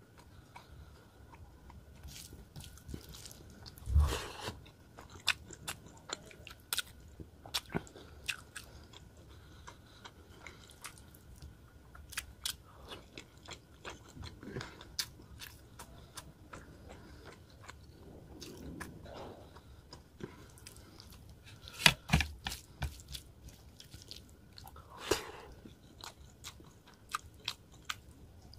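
Close-up chewing of a mouthful of rice and rohu fish curry, eaten by hand: many small mouth clicks and smacks, with a few louder bites about four seconds in and again a little past twenty seconds.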